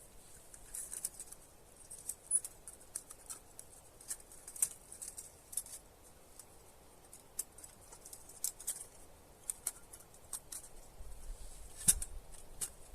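Irregular light clicks and ticks, several a second, with a louder snap near the end.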